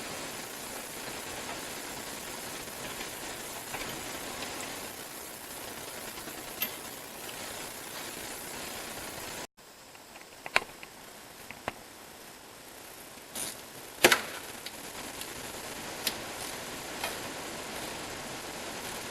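Hand tools and engine parts being handled during the water pump job: a steady hiss for the first half, then after an abrupt cut, a quieter background with about six sharp, separate clicks and knocks, the loudest a little past the middle.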